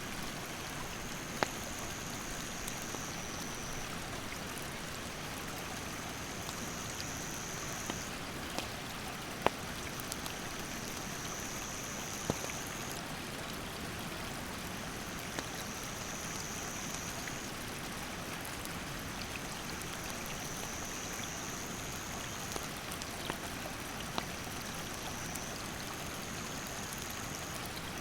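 Steady rush of a mountain stream, with sharp crackles and pops from a wood campfire scattered through it. A high, thin insect call repeats every two to three seconds, each call lasting a second or so.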